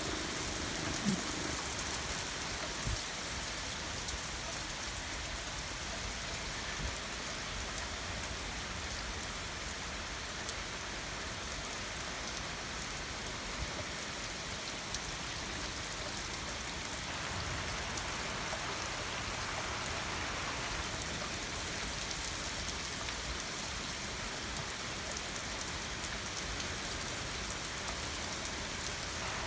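Heavy thunderstorm rain falling steadily, an even hiss of drops hitting surfaces, with a few light taps in the first few seconds.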